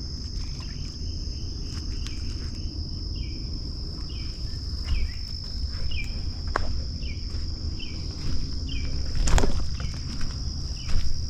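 Steady high-pitched insect trill, with a short chirp repeated about every half second through the middle and scattered footstep crunches and knocks.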